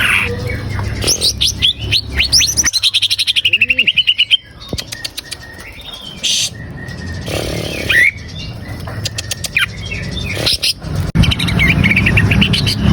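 Cucak ijo (leafbird) song: a fast, varied stream of chirps and whistled slurs, with a quick rattle of repeated notes about a third of the way in. A low steady hum runs underneath.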